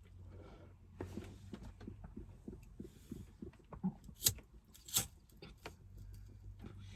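Faint scattered clicks and rustles of handling, with two sharper clicks about four and five seconds in.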